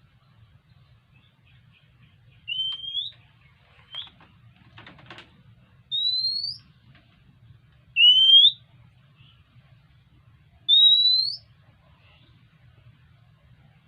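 Oriental magpie-robin calling: a clear whistled note that rises in pitch, given four times a few seconds apart, with a short scratchy rattle in between. The bird calls like this when it comes begging for food.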